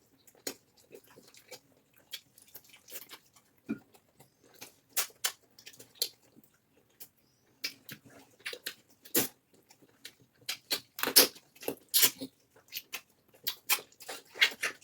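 Close-miked eating: irregular wet mouth clicks and lip smacks of people chewing cassava fufu with egusi soup, growing denser and louder about ten seconds in.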